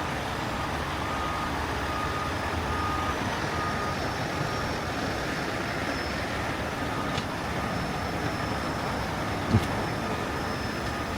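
Steady heavy-truck and roadway noise, with faint reversing beeps repeating during the first few seconds. One short knock near the end.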